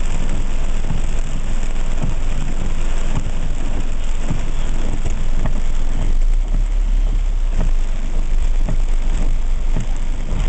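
Heavy rain falling on a van: a dense steady hiss with many separate drop hits, over a steady low rumble.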